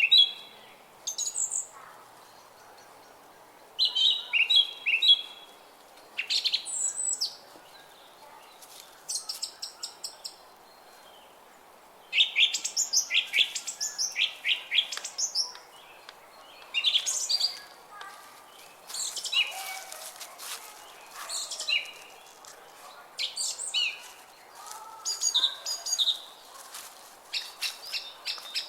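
Songbirds chirping and singing in short, high phrases one after another, some made of quick runs of repeated notes, over faint steady background noise in the gaps.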